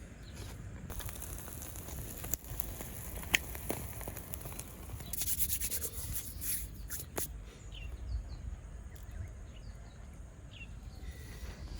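Outdoor ambience: a low rumble, scattered sharp clicks and knocks, and a few faint short bird chirps in the second half.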